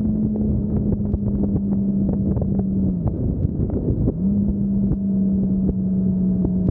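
Motorcycle engine running at steady road speed with wind noise. The engine note drops about three seconds in and picks back up about a second later.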